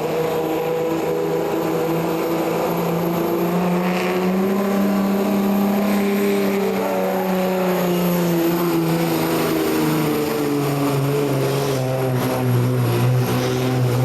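Engine of a pulling truck or tractor running hard under load, its pitch climbing over the first few seconds, then falling away and holding steady lower near the end.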